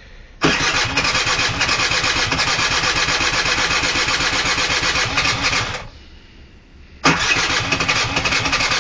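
Scooter engine being cranked over from cold with the throttle cracked open, trying to catch. It cranks for about five seconds, stops for about a second, then cranks again.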